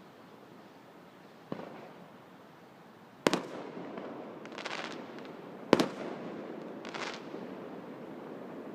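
Aerial fireworks bursting: a faint bang about a second and a half in, then two loud sharp bangs about two and a half seconds apart, each followed a second or so later by a brief crackle.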